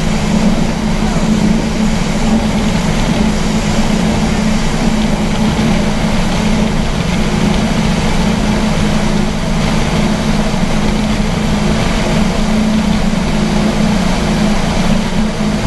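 Speedboat engine running steadily at speed, a constant low drone under a loud rush of wind and water.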